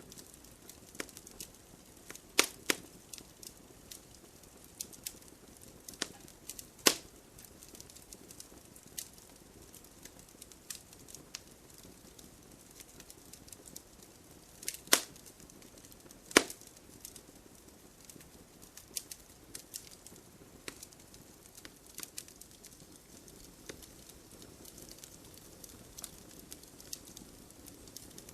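Wood fire burning in a fireplace: a soft steady hiss with irregular crackles and a few sharper pops from the burning logs.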